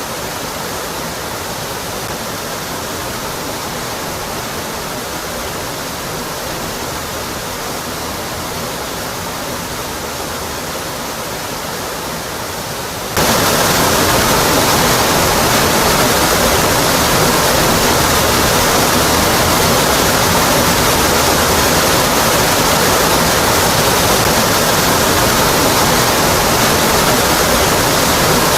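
Waterfall pouring steadily, a dense even rush of falling water. About halfway through, the sound jumps abruptly louder and brighter, then holds steady again.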